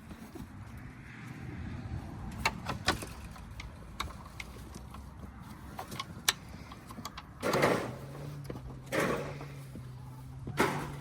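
Scattered knocks and clatters, then a motor vehicle engine starts about two-thirds of the way through and settles into a steady idle. Its idle is broken by two short surges that sound like brief revs.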